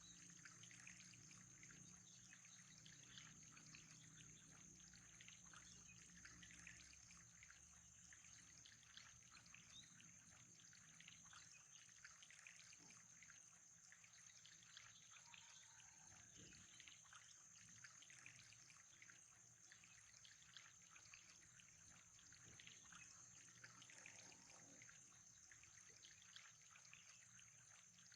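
Very faint trickling water, a steady light crackle with a thin high steady tone and a low hum beneath it.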